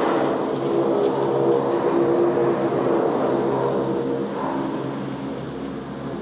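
Cable car running through its giant spinning sheave wheels, a steady mechanical drone with a rumble that swells at the start and eases a little near the end.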